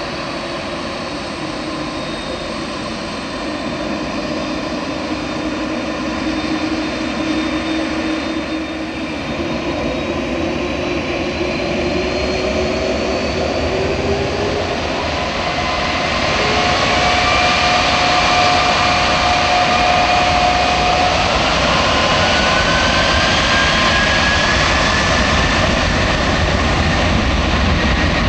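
Airbus A310-308 airliner's jet engines running, their whines gliding upward in pitch and the sound growing louder with a deepening low rumble about halfway through, as the engines spool up.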